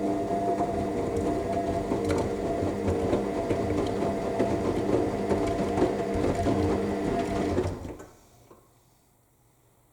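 AEG 7000 Series front-loading washing machine tumbling its drum during the main wash: a steady motor hum with water and laundry churning in the drum. The drum winds down and stops about eight seconds in, pausing between turns.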